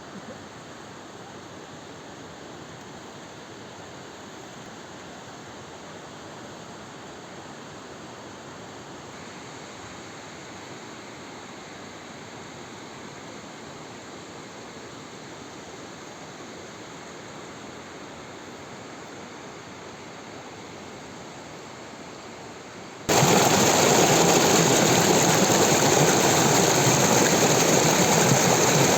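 Waterfall rushing steadily, a constant roar of falling water. About 23 seconds in it suddenly becomes much louder.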